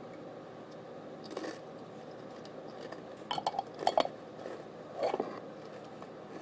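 Short clinks and clatters of tableware being handled, in three brief bursts: about a second and a half in, around three and a half to four seconds in (the loudest), and about five seconds in.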